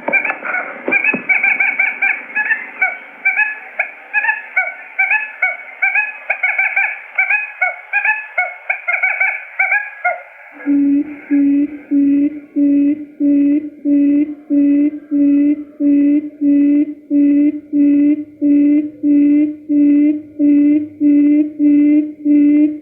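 Recorded quail lure calls used for trapping: quick, tightly packed chirping notes, which switch abruptly about halfway through to a low, regular call repeated about one and a half times a second.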